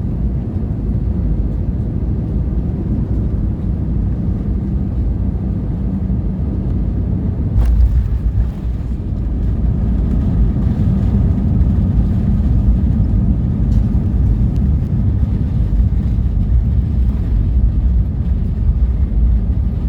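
Cabin noise inside an Airbus A320 rolling on the ground after landing: a steady low engine and rolling rumble. A sharp thud comes about eight seconds in, after which the low rumble grows louder.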